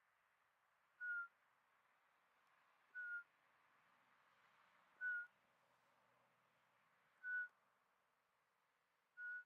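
Eurasian pygmy owl giving its song: five short whistled notes on one pitch, each dipping slightly, about two seconds apart, over a faint hiss of wind.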